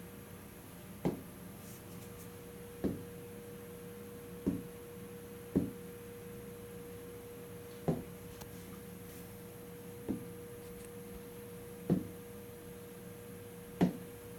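A steady electrical hum with a clear pitched tone, broken by eight short sharp clicks or knocks at uneven gaps of one to two seconds.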